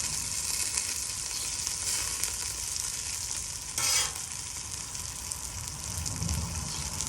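Breaded chicken thighs shallow-frying in hot canola oil on a flat-top griddle: a steady sizzle, with a brief louder burst about four seconds in.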